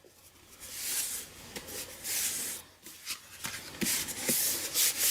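Cardstock and paper rustling and rubbing as pieces are handled and pressed together, in several swells with a few light taps near the end.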